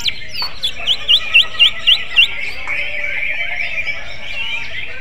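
Cucak ijo (leafbird) singing in a magpie-robin-like style: a quick run of six repeated, swooping whistled notes about a second in, then a continuous twittering warble.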